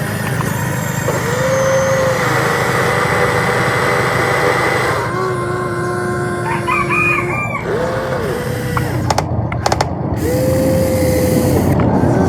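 Hydraulic pump of an RC excavator whining in spells, each rising, holding steady for a second or so and dropping away, over a continuous motor hum as the machine works.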